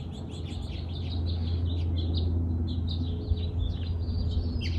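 Small birds chirping in quick short notes over a steady low hum, with a light tap near the end.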